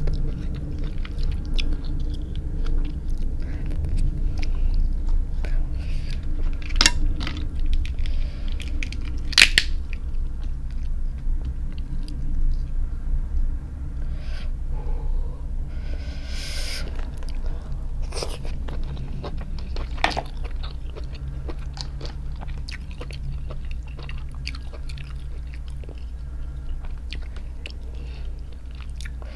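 Close-up chewing of crab meat, interrupted by a few sharp snaps as cooked crab shell is cracked and picked apart by hand, with a short rustling crunch about halfway through.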